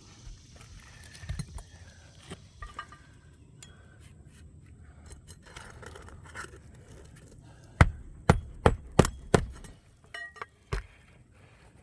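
Hammer driving a roofing nail into asphalt laminate shingles: a quick run of about five sharp strikes late on, then one more, after a stretch of small clicks and scrapes from handling the shingle and tools.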